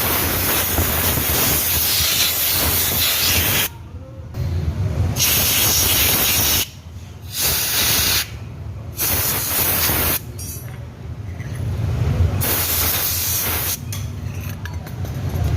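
Compressed-air blow gun blasting dust out of an opened scooter CVT: a loud hiss in several blasts of one to four seconds, each cutting off sharply.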